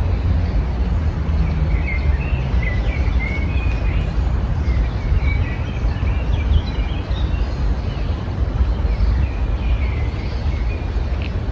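Small songbirds chirping in many short, high calls over a steady low rumble, which is the loudest sound.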